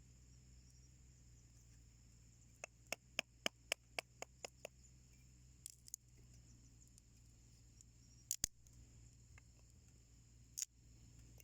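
Wood burning in a homemade wood stove, crackling faintly: a quick run of about nine sharp pops, then a few scattered ones, the loudest about eight seconds in. A steady high-pitched drone runs underneath.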